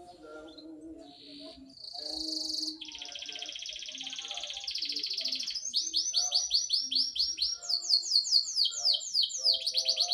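Domestic canary singing a long run of fast trills, switching to a new trill every second or two. The song grows loud about two seconds in.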